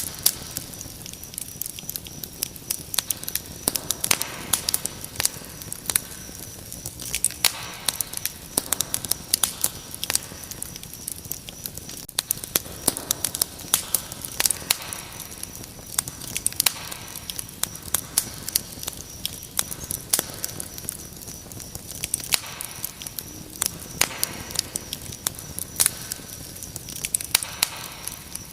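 Wood fire crackling, with dense, irregular sharp pops and snaps. Underneath, crickets keep up a steady high chirping.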